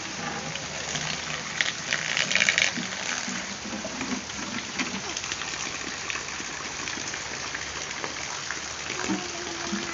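Steady heavy rain pouring down, with a burst of louder splashing about two seconds in.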